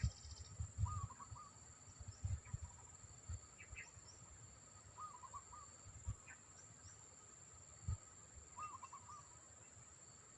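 Low, irregular thumps of wind buffeting the microphone, the loudest sounds. A short wavering bird call repeats three times, about four seconds apart, over a steady high-pitched insect whine.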